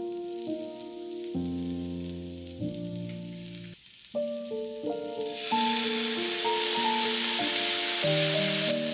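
About five seconds in, soy sauce poured into a hot wok of green beans and shiitake mushrooms sets off loud, steady sizzling. Background music plays throughout.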